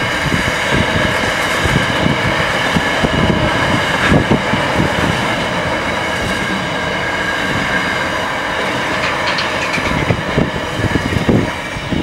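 Freight train wagons rolling past at speed: wheels clacking and knocking over the rail joints with a steady rumble, and a thin high whine from the wheels on the rails. The sound starts to fade near the end as the last wagon goes by.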